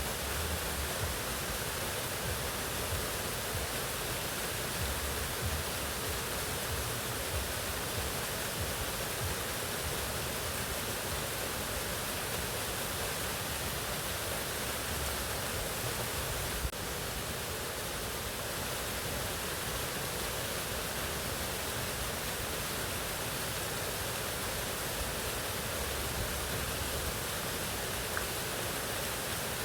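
Mountain waterfall: a steady, even rush of falling water, with a brief drop in level about seventeen seconds in.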